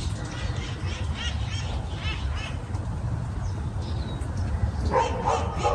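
Birds calling: a quick run of short, high chirping calls, then harsher, lower caws near the end, over a steady low rumble.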